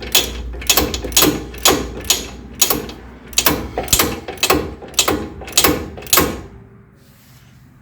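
Hand ratchet with an extension clicking in a steady rhythm, about two clicks a second, as it spins out an 18mm brake caliper bolt; the clicking stops about six seconds in.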